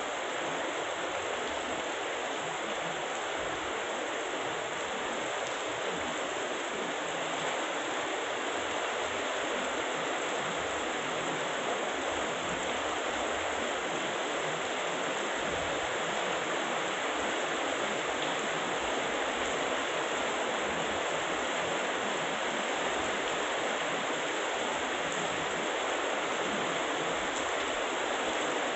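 Heavy rain falling steadily, an even, unbroken rush of water.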